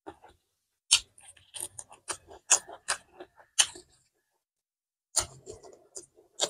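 Close-miked chewing with wet mouth clicks and lip smacks from someone eating rice and curry by hand, in irregular clusters with a pause of about a second in the middle.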